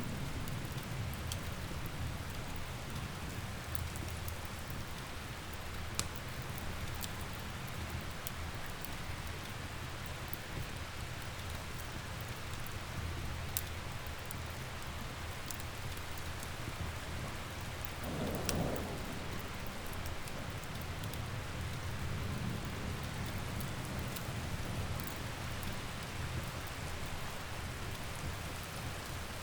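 Steady rain with a low, continuous rumble of thunder underneath, and scattered sharp crackles and pops from a wood fire. A brief louder surge of rumble comes about two-thirds of the way through.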